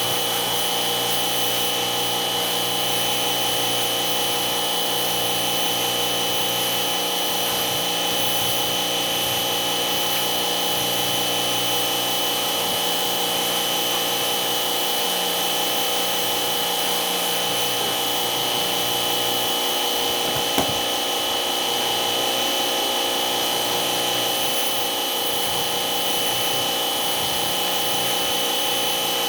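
A motor-driven machine running steadily with a high whine and no change in speed, one short click about 20 seconds in.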